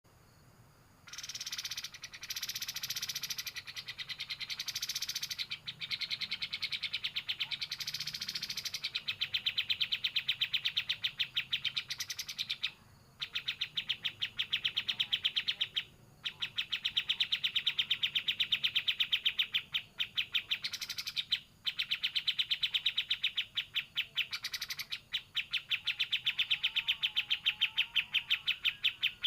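A kapas tembak (white-shouldered triller) songbird singing in long, fast rattling trills of rapidly repeated high notes, several seconds at a time, with short breaks between bouts.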